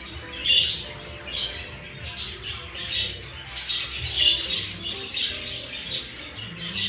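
Birds chirping and squawking in short calls about once a second, over soft background music.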